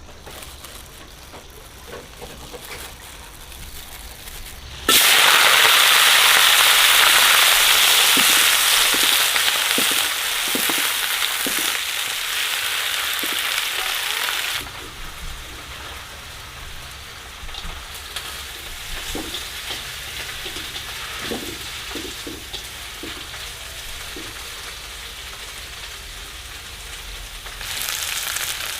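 Food hitting hot oil in a pan and sizzling, starting suddenly about five seconds in. The sizzle is loudest for about ten seconds, then settles to a quieter steady frying, with scattered light clicks of stirring.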